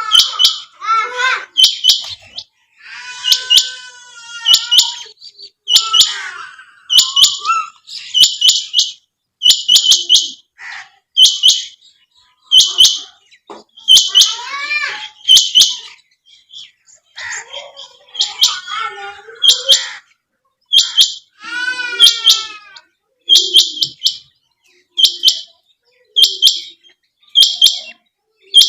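Quail calling over and over: short bursts of a few quick, high notes, roughly one burst a second. A fainter, lower sliding call is heard a few times between the bursts.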